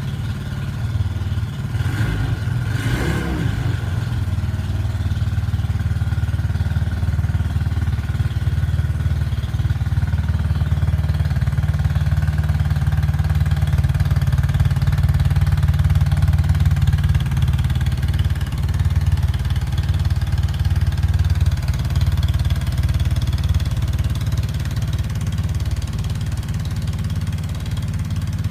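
Yamaha Cygnus X FI scooter's single-cylinder four-stroke engine running steadily at idle through an aftermarket muffler. There are two short knocks about two and three seconds in.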